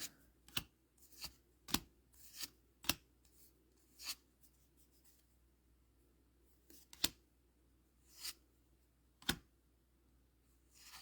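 A trading-card booster pack being opened and its cards handled: about a dozen short, separate crinkles and flicks of the wrapper and card stock, with quiet gaps between them.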